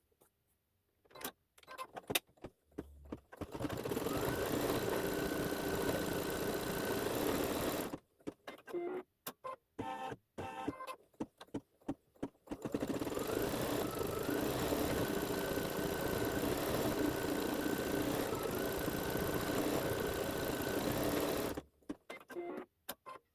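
Embroidery machine stitching out lettering. It runs steadily for about five seconds and then stops, with a few seconds of clicks and short pauses between stitch sections. It then runs again for about nine seconds and stops near the end.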